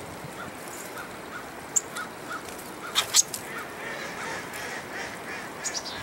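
Birds calling: a steady series of short, evenly spaced notes, about three a second, with a few sharp high chip notes around three seconds in and again near the end.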